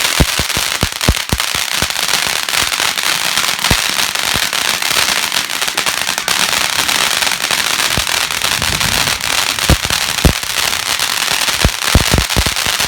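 A firework going off: a loud, continuous hissing crackle with many sharp cracks and pops scattered through it.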